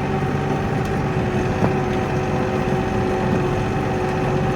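Kioti NX4510 tractor's diesel engine running steadily, with a steady whine riding on the low rumble.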